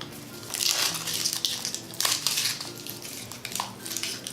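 Foil wrapper of a Kinder Surprise chocolate egg crinkling and tearing as it is peeled off by hand, in rustling bursts that thin to scattered crackles in the second half.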